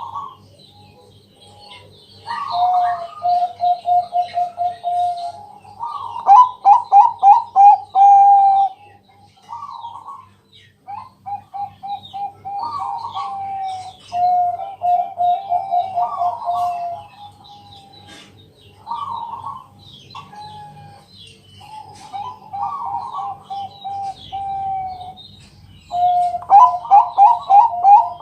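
Zebra dove (perkutut, Bangkok type) cooing: about seven phrases, each a higher opening note and then a quick rolling run of lower coos, with short pauses between. Faint high chirps and a faint low pulsing hum sit behind it.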